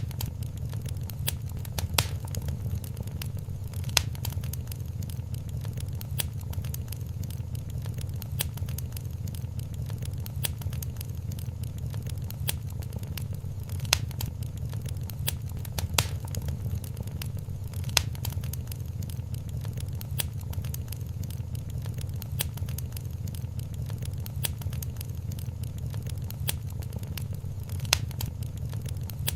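Wood fire crackling in a fireplace: frequent sharp pops and snaps over a low, steady rumble of flames.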